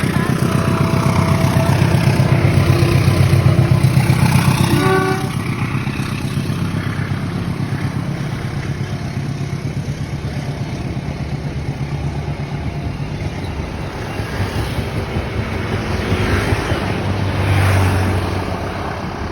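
A departing train's engine running with a heavy, rapidly pulsing throb, loudest in the first five seconds and then steadier and a little quieter, with a few brief tones about five seconds in.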